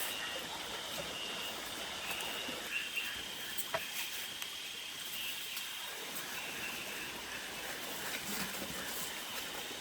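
Steady hiss of rain in the forest, with a thin high, unbroken whine running through it and a few faint clicks.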